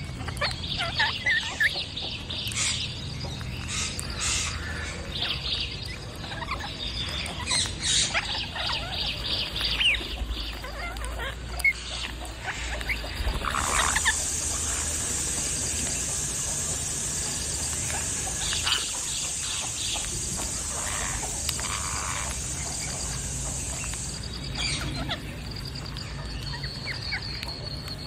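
Birds calling in a tree canopy: many short, sharp chirps in the first half, fewer later. About halfway through a steady high-pitched buzz starts, and it cuts off suddenly near the end.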